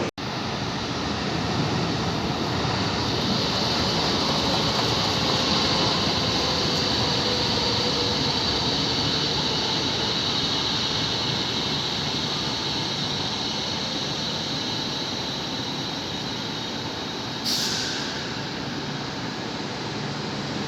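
A train running through a railway station: a steady rumble and hiss with a faint whine that falls in pitch over the first several seconds. A short sharp hiss comes about three-quarters of the way through.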